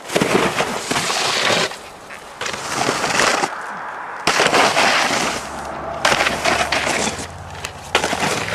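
Loud rushing, scraping noise comes in bursts of a second or two with short gaps between them. From about halfway, a small engine's steady hum runs beneath it.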